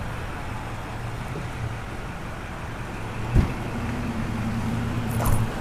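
A motor vehicle's engine running nearby, a steady low hum that grows stronger about four seconds in. There is a single sharp knock just before the hum grows.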